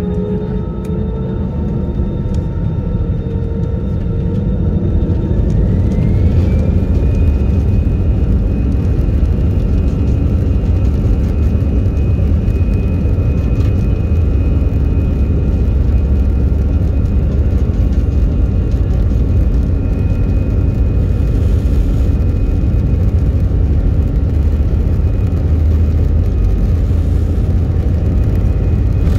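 Airbus A320 jet engines spooling up, heard from inside the cabin: a whine rises in pitch about five seconds in as the engine noise grows louder, then holds steady over a heavy rumble, as on a takeoff roll.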